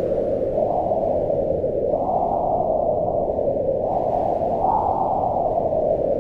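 Wind blowing steadily as a deep rush that swells and eases in slow gusts, with a faint high whistle riding on the stronger gusts.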